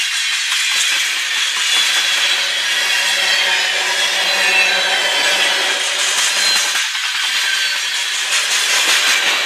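Steel wheels of freight tank cars rolling past on the rail: a steady rushing grind of wheel on rail, with a faint high-pitched ringing running through it.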